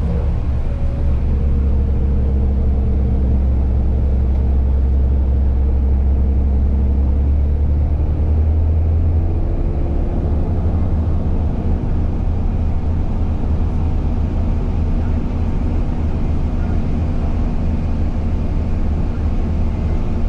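Steady low drone of a moving vehicle's engine, with its pitch shifting slightly about nine seconds in.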